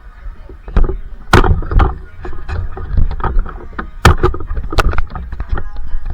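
Gym equipment in use during a workout: a string of irregular loud thuds and knocks over a low rumble, with the loudest hits about a second in, near the middle and near the end.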